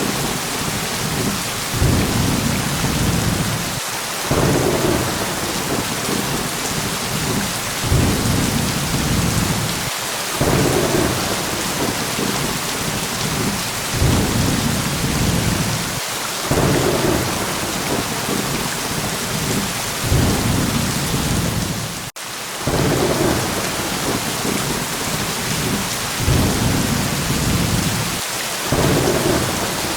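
Steady heavy rain hissing with thunder rumbling low underneath, the rumbles swelling and fading every few seconds. The sound cuts out for an instant about two-thirds of the way through.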